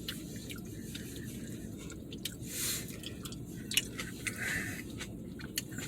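A man chewing a mouthful of Peking beef and rice, with soft mouth noises and a few small clicks, over a steady low background rumble.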